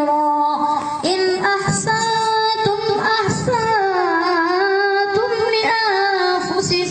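A child's voice reciting the Quran in melodic tajweed chanting, drawing out long held notes. After a short break about a second in, one long note dips slowly in pitch and rises again.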